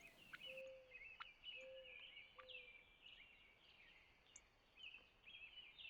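Faint distant birdsong: many short chirps and a few sharp chips, with three brief lower notes in the first few seconds.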